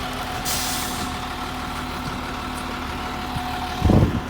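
A vehicle engine idling steadily, with a brief hiss about half a second in. Near the end comes a loud thump, and the idle's steady tone stops with it.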